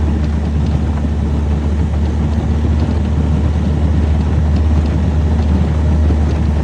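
Boat motor running steadily at speed under way, a loud low drone mixed with wind and water rush.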